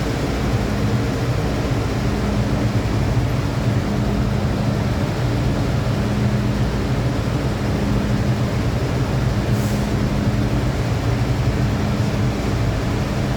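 Steady interior noise of an MTR M-Train electric multiple unit: a low rumble and hum, with a tone that keeps dropping out and returning.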